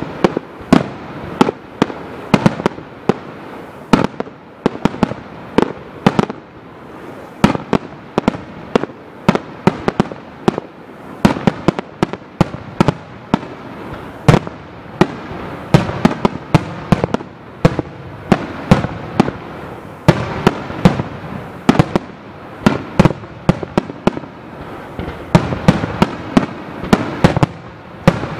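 A rapid-fire starmine barrage of aerial fireworks: many sharp bangs a second, overlapping and echoing, with no let-up.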